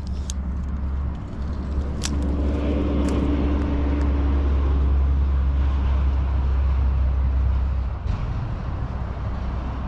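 Low engine rumble of a passing motor vehicle, swelling about a second in, holding steady with a faint hum above it, and easing off about eight seconds in.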